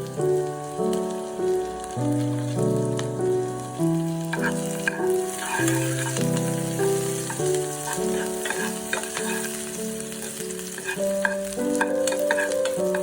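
Food sizzling as it fries in a pan, with the clicks and scrapes of a utensil stirring from about four seconds in. Instrumental background music plays over it.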